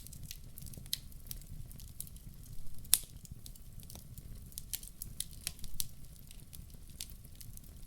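Wood fire in a fireplace crackling, with many irregular sharp pops, the loudest about three seconds in, over a low steady rumble.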